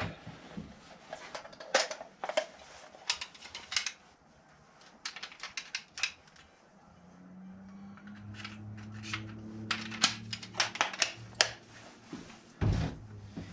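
Irregular light clicks and taps of small hard parts being handled and fitted together. A low steady hum joins about halfway through and stops near the end.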